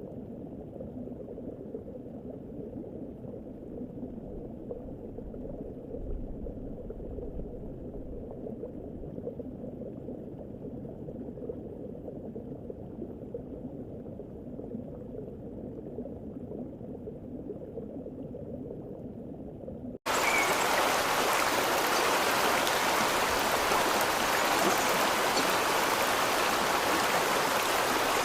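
Steady rushing noise like running water, dull and muffled at first; about twenty seconds in it cuts abruptly to a much louder, brighter hiss.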